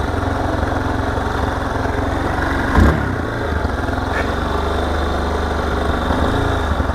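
Motorcycle engine idling steadily, with a single thump about three seconds in.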